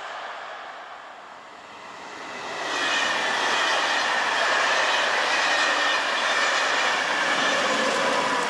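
A Corail passenger train with an SNCF BB 22200 electric locomotive passes close by. The wheel-on-rail noise swells about two and a half seconds in and holds, with a high steady tone that slowly drops in pitch.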